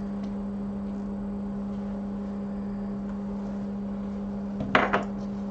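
Steady electrical hum from microsoldering bench equipment, with a brief sharp click or knock near the end.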